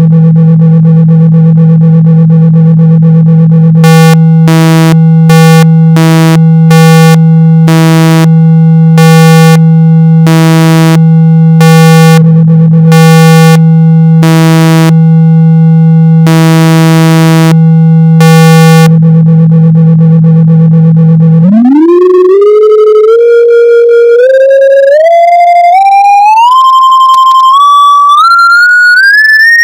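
Speaker-cleaning test tone: a loud, steady low tone of about 162 Hz, played to vibrate the speaker cone and push out water and dust, with higher tones pulsing on and off over it about once a second. About twenty seconds in, the low tone stops and a single pure tone sweeps upward in small steps.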